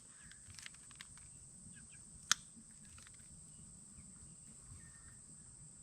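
Glass being pressure-flaked with a hand flaker, flakes popping off the edge as sharp clicks: a few small ticks about half a second and a second in, then one loud snap a little after two seconds. A steady high drone of insects runs underneath.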